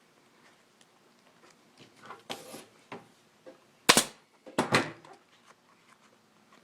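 Staple gun firing staples through upholstery fabric into a motorcycle seat pan: one sharp shot about four seconds in, then two more in quick succession just after.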